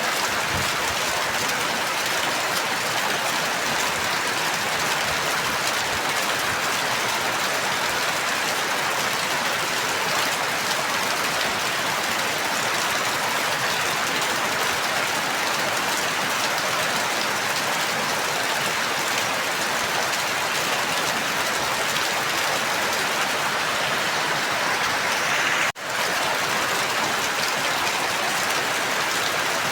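Steady rain falling, an even hiss with no other sounds. It cuts out for a split second about four seconds before the end, then carries on unchanged.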